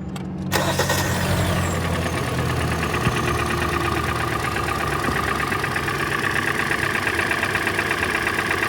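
A 2012 Hyundai Elantra engine starting: it catches about half a second in and runs on at a steady idle with a fast, even pulsing, the "definite motor noise" that the owner puts down to a worn engine still showing blow-by.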